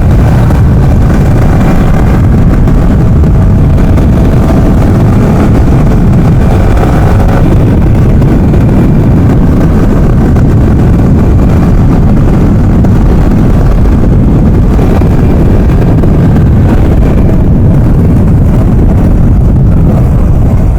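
A vehicle on the move: a loud, steady rush of wind and road noise over a faint engine hum, with no pauses.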